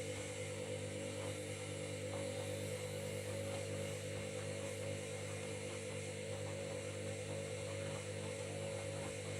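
Washing machine running with a steady motor hum, several even tones held at one pitch.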